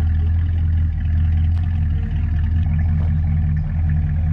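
A car engine idling steadily, a loud low even rumble, with a slight change in its tone about three seconds in.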